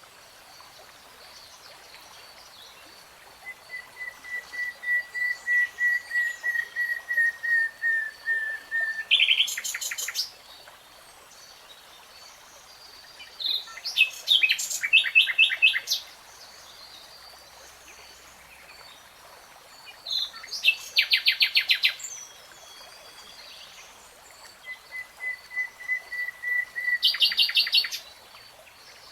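Nightingale singing in separate phrases with pauses between them. One is a long run of repeated whistled notes that grow louder and break into a fast dry rattle; the others are quick rapid trills.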